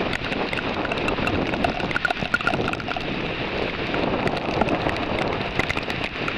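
Heavy rain in a thunderstorm: a steady hiss of falling rain with many sharp individual drops striking close by.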